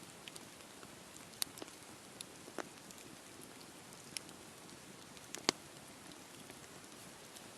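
Wood campfire burning: a soft steady hiss with scattered sharp crackles and pops, the loudest pop about five and a half seconds in.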